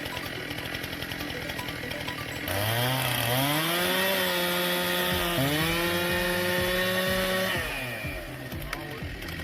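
Two-stroke chainsaw revving up to high speed about two and a half seconds in, dipping briefly and picking back up, then letting off near the end.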